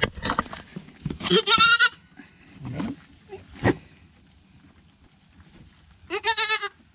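Boer goats bleating: two loud, quavering bleats, one about a second in and one near the end, with a few sharp knocks in between.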